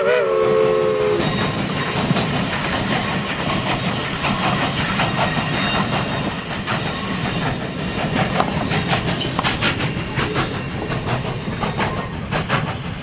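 Steam train passing: McCloud #18's whistle sounds a chord that cuts off about a second in. A steady high-pitched wheel squeal follows for several seconds, then quick repeated clicks of wheels over rail joints near the end.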